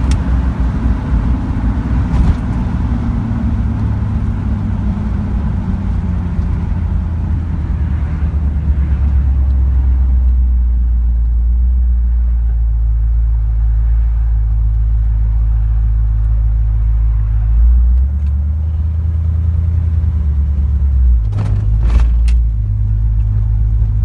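1972 Corvette's V8 engine running, its pitch falling over the first several seconds as it slows, then settling into a steady low rumble. A few sharp clicks near the end.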